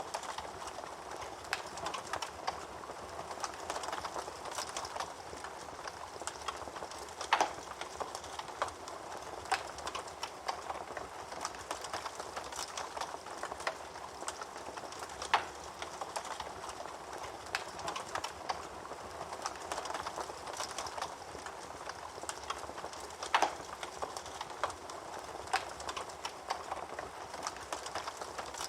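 Wood fire burning in a fireplace: a steady crackle with many small snaps, and a few louder pops about eight seconds apart.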